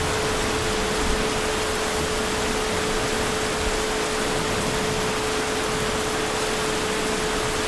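Heavy rain falling as a steady, even hiss with no thunder, over a thin constant tone.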